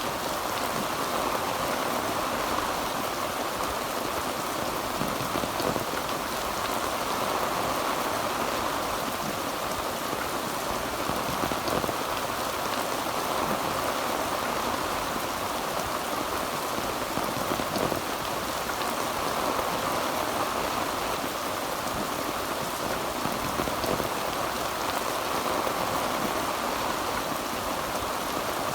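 Heavy rain falling steadily on a tin roof, a dense, even patter of drops on the metal.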